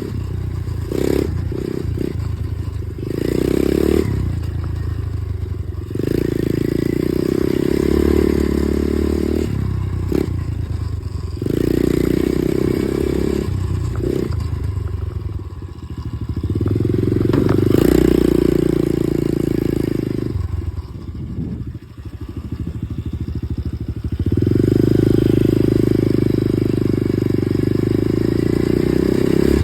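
Dirt bike engine ridden under throttle, pulling up and holding for a few seconds at a time, then easing off in between, four times over.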